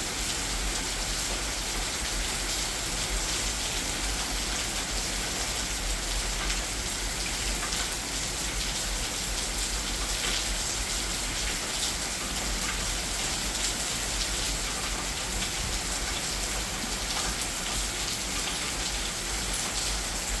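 Heavy rain falling steadily, a dense hiss of drops with a low rumble of wind underneath.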